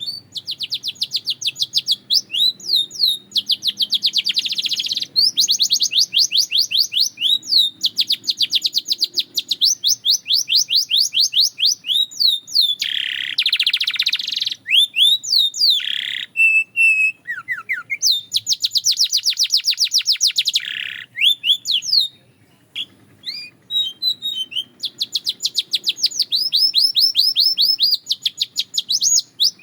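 Canary singing a long, loud song of rapid trills: tours of fast repeated notes, one after another. About halfway through comes a lower, denser roll, and there are a few short pauses about three quarters of the way in.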